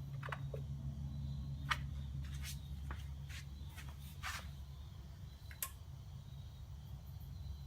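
Steady low electrical hum from the plugged-in power supply running a rust-removal electrolysis bath, with a few scattered small clicks and taps.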